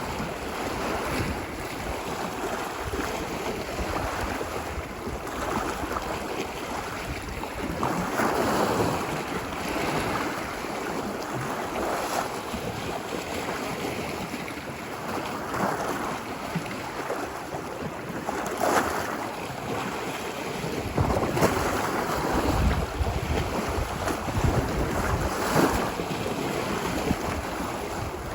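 Ocean waves breaking and washing up a beach, the surf swelling and easing every few seconds. Wind buffets the microphone with low rumbles, more so in the second half.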